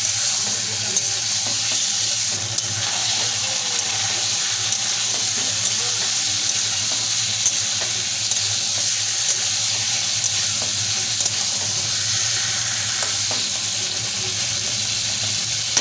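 Marinated chicken and green peas sizzling steadily in a pan of onion-tomato masala as they are stirred and fried down for chicken kosha, with a few light taps now and then.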